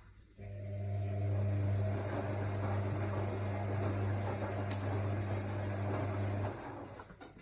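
AEG Lavamat L62850L washing machine: a steady electric hum with water rushing through it, starting about half a second in and cutting off suddenly after about six seconds, as when the machine's pump or water valve switches on and off.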